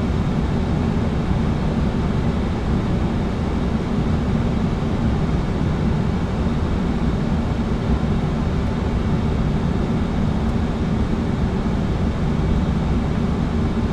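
Steady cockpit noise of an airliner in flight: airflow and air-conditioning with a low rumble, unbroken throughout.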